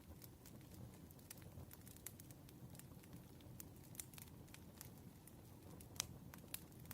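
Campfire crackling faintly: scattered small pops and snaps over a low steady rustle of burning wood, with a couple of sharper pops about six seconds in.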